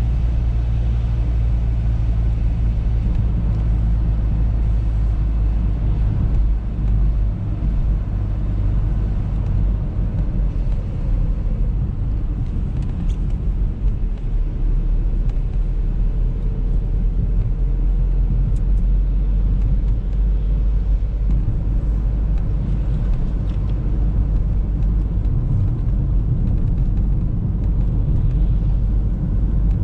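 Audi A3 driving steadily, a continuous low engine and road rumble with a steady low hum underneath; it dips slightly twice, about 7 and 14 seconds in.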